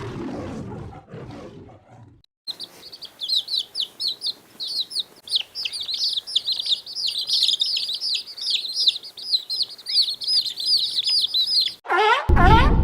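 Many small birds chirping together in a rapid, dense chatter of short high chirps. It follows the fading tail of a lower, rougher animal sound and is cut off near the end by a sudden loud sound.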